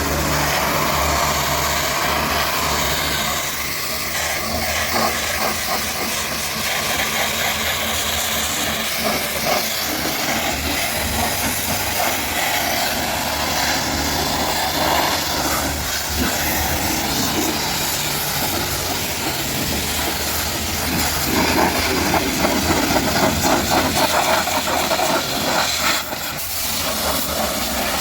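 Pressure washer spraying water onto a car: a steady hiss of the water jet over the hum of the washer's motor, growing louder and more spattery near the end.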